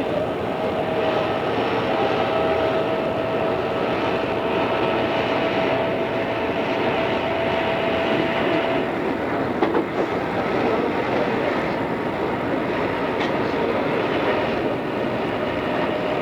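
Odakyu 2600 series electric commuter train running on the rails. A steady tone sits over the running noise until about nine seconds in and then fades, and a short knock comes about a second later.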